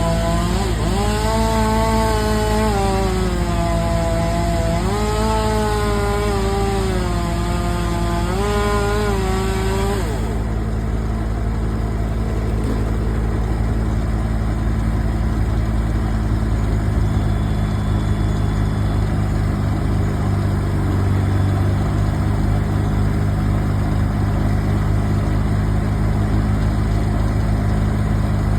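Two-stroke chainsaw at high revs cutting wood, its pitch sagging and recovering several times under load, then it stops about ten seconds in. Afterwards a heavier engine keeps running steadily at a low idle.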